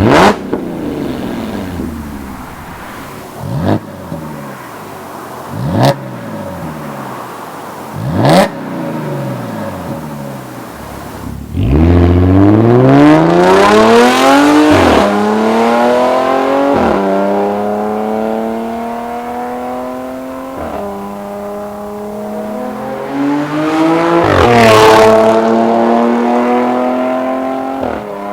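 Audi S4 with an Armytrix valvetronic aftermarket exhaust: four short, sharp throttle blips, then the car accelerating hard, the engine note rising and dropping back at each upshift before settling to a steady cruise, with one more surge near the end.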